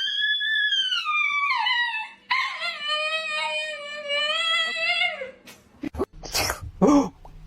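Dog howling in two long drawn-out calls: the first high and sliding down, the second lower and held. A few short sharp sounds follow near the end.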